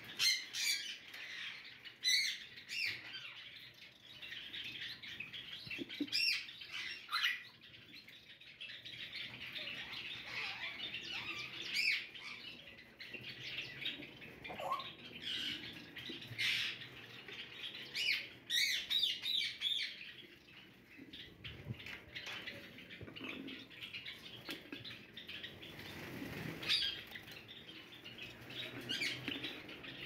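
Java sparrows chirping in an aviary: a steady chatter of many birds, with louder, sharp calls scattered through.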